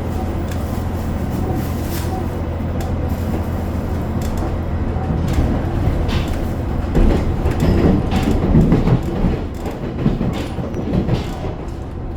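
Inside a diesel limited express train running on the rails: a steady low rumble of engine and wheels, with louder rattling and clatter from about seven to nine seconds in.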